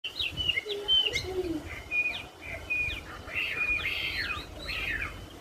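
A wambi songbird singing busily: a rapid run of high whistled notes and quick downward slurs, with a few lower gliding notes in the first second and a half.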